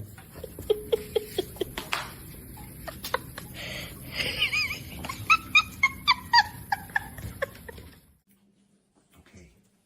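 A dog giving a run of short, high yelps in the middle of the clip, over scattered clicks and knocks; it all stops at about eight seconds.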